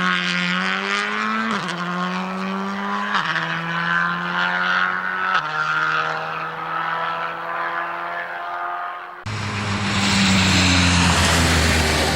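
Rally car accelerating through the gears, its engine note climbing and then dropping at three upshifts as it pulls away and fades. About nine seconds in the sound cuts abruptly to another rally car, close and loud, with a rough, noisy engine running at steady revs.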